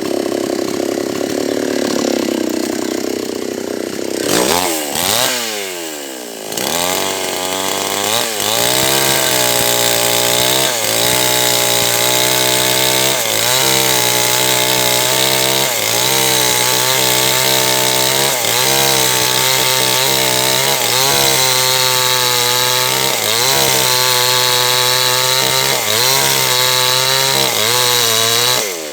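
H&L Pro 5800 two-stroke chainsaw revving up a few seconds in, then running at full throttle. Its pitch sags and recovers every second or two as the engine is loaded, cutting into a large teak log.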